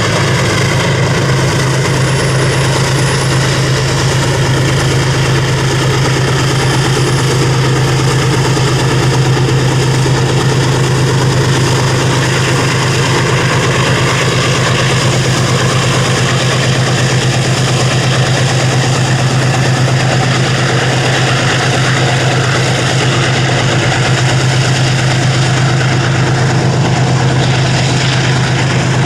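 Steady, even mechanical hum with a strong low tone and many overtones, holding the same pitch throughout.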